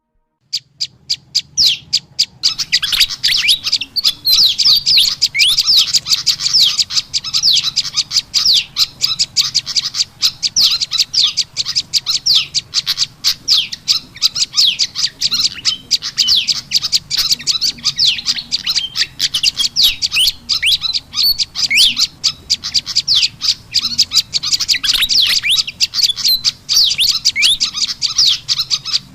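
Bird-lure recording of prenjak lumut calls mixed with kipasan (fantail) calls. It is a dense, nonstop stream of rapid, high-pitched chirps and sharp ticks that starts about half a second in.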